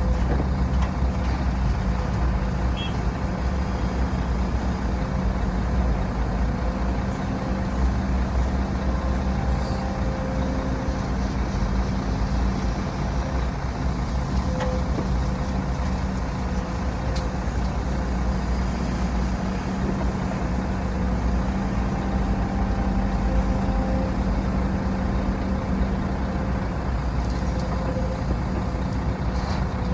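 Heavy diesel earthmoving machinery, an excavator and dump trucks, running steadily: a continuous low engine drone with a faint steady whine above it.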